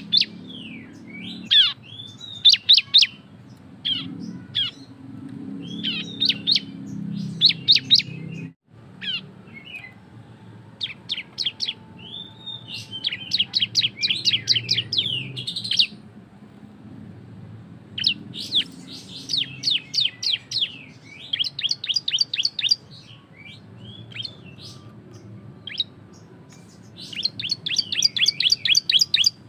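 Prinia (ciblek) singing loudly in its 'ngebren' style: bursts of rapid, sharp, high chirping notes, the longest runs near the middle and toward the end, over a faint low hum.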